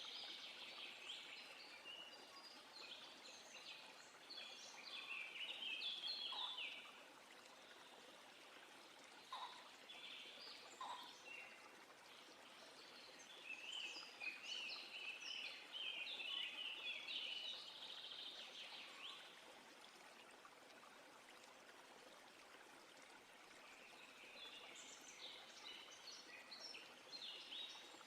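Songbirds singing in spells of quick, high chirping phrases, about four spells with quieter gaps between them, over a faint steady hiss.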